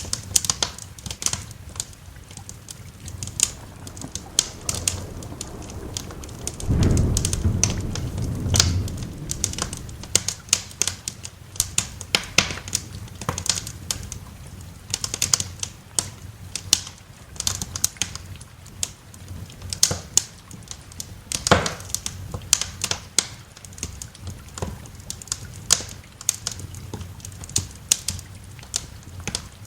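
Wood fire in a fireplace crackling, with frequent irregular sharp pops, over a steady hiss of rain. A low roll of thunder rumbles for about two seconds near seven seconds in.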